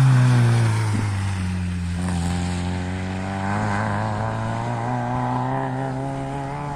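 Rally car engine going past close by. It is loudest at the start, its note drops over the first second, then it holds a steady drone that slowly fades.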